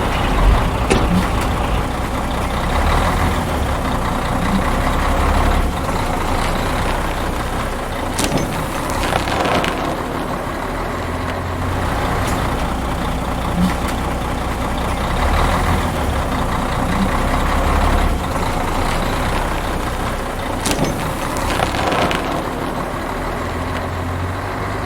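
Truck engine running, its low sound swelling and easing every few seconds, with a few sharp clicks.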